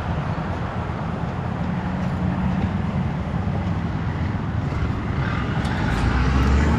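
A motor vehicle's engine running steadily with a low hum, with a deeper rumble coming up near the end.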